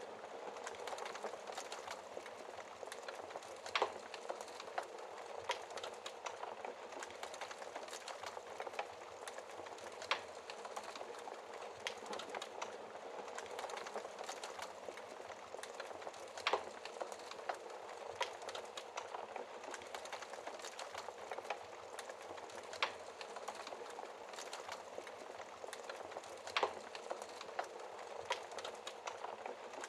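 Wood fire burning in a fireplace: a steady low hiss with irregular sharp crackles and pops, a few louder pops standing out among them.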